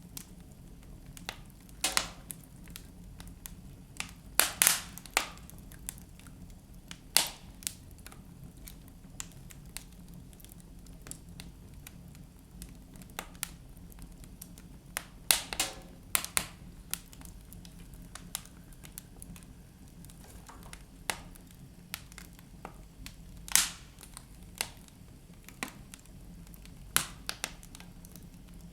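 Wood fire crackling in a fireplace, with irregular sharp pops and snaps from the burning logs over a low steady hum.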